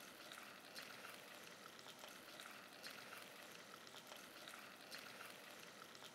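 Faint sizzle of potatoes and peanuts frying in mustard oil, with scattered small crackles.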